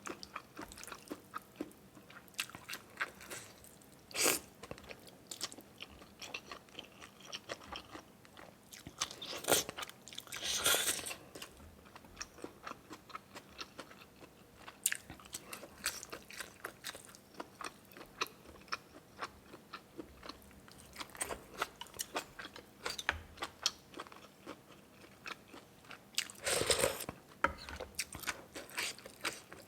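A person chewing and biting food, with crunching and many quick wet clicks, and a few longer, louder noisy sounds about a third of the way in and again near the end.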